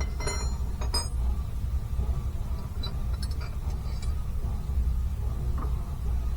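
Metal tools clinking twice against metal, with a high ringing, then a few light taps and knocks, over a steady low hum.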